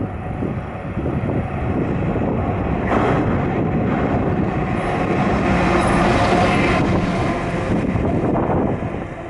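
A passenger train moving along the platform. It makes a steady rumble that grows about three seconds in and eases off near the end.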